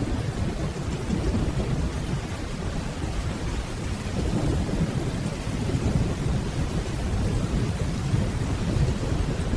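Steady rainfall over a continuous low rumble of distant rolling thunder.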